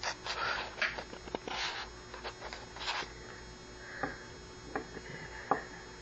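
Scattered small clicks, taps and short rustles of objects being handled close to the microphone, over a steady electrical hum.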